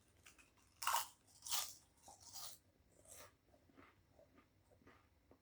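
A person biting into and chewing potato crisps: four crisp crunches, the first the loudest, fading into quieter chewing.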